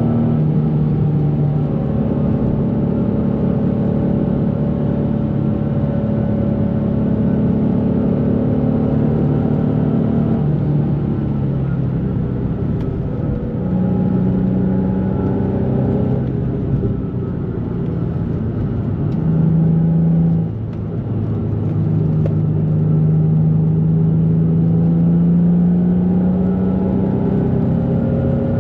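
2004 Nissan 350Z's 3.5-litre V6, fitted with a Z1 exhaust, Z1 intake and JWT pop charger, running while the car is driven. The engine note holds, falls and rises several times, with a short dip in loudness about twenty seconds in, then climbs slowly toward the end.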